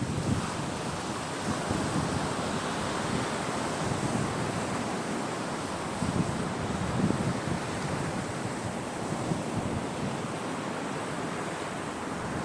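Sea waves breaking and washing up a beach in a continuous surf, swelling louder near the start and again about six to seven seconds in.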